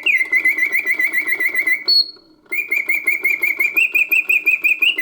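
Vintage 1950s Karl Griesbaum singing bird cage automaton singing: its bellows-driven whistle trills in fast repeated chirps, about eight a second, breaks off briefly around two seconds in with a single higher note, then resumes and rises in pitch near the end. The mechanism's low whir runs beneath.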